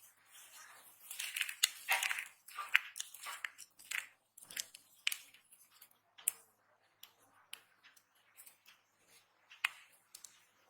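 Dry soap being cut and crushed: crisp crunching and snapping, densest for the first few seconds, then thinning to scattered sharp clicks and crumbles.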